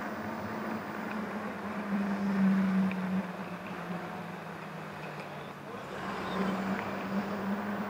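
Riding noise from an electric bike on city streets, heard on a handlebar-mounted camera: a steady rush of wind and traffic with a constant low hum that swells about two seconds in and again near the end.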